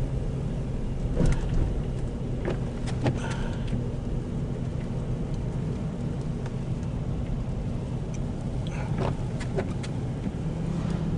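Car driving, a steady low engine and road hum with a few faint knocks.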